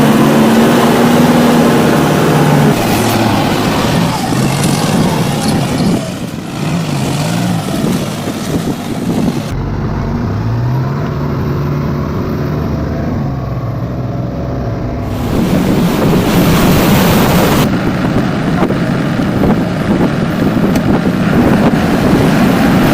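Heavy diesel tractor engines running and revving under load, their pitch rising and falling, with the sound changing abruptly a few times.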